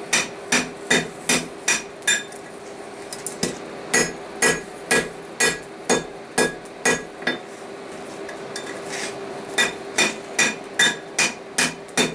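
Blacksmith's hand hammer striking hot steel on the anvil, each blow ringing. The blows come about two or three a second in three runs, with short pauses between, as the drifted eye of a forged bottle opener is refined and rounded. A steady hum runs underneath.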